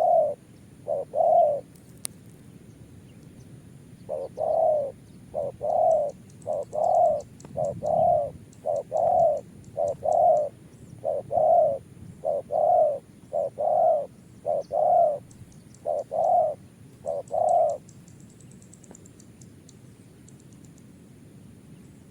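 Spotted dove cooing: a long string of short, low coos at about one or two a second, stopping about 18 seconds in.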